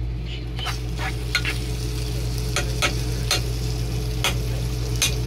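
Corned beef hash frying in a pan, sizzling with irregular crackles as it is stirred, over a steady low hum.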